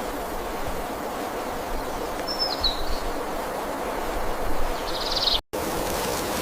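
Steady rushing hiss of outdoor forest ambience, with two brief high-pitched bird chirps: a short falling call around the middle and a quick trill near the end. The sound cuts out for an instant just after the trill.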